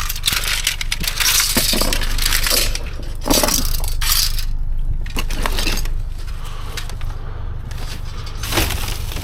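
Debris in a dumpster being shifted and rummaged through: irregular crunching, rattling, clinking and knocks as pieces are moved and dropped, over a steady low rumble.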